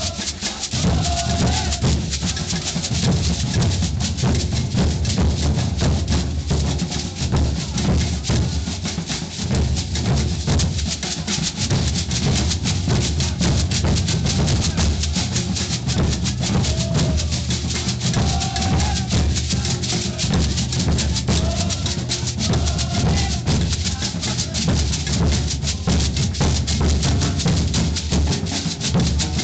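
Maracatu percussion ensemble playing a dense, steady rhythm: deep bass drums under a constant hiss of shakers.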